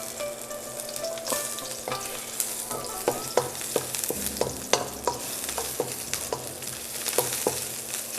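Chopped onions sizzling in hot oil in a pan as they are stir-fried, with the stirring utensil knocking and scraping against the pan in many short, irregular clicks.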